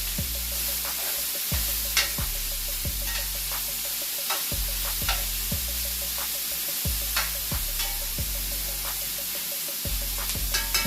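Sliced smoked sausage and diced vegetables sizzling in oil in a cast iron skillet, with a steady hiss and scattered sharp clicks of a utensil against the pan as they are stirred.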